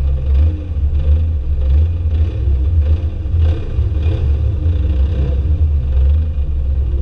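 Drift car engines revving and easing off, rising and falling in pitch over a heavy, steady low rumble.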